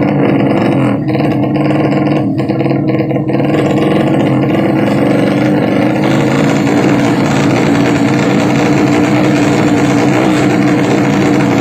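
Drag bike engine running loud at high, nearly steady revs, its pitch wavering only slightly.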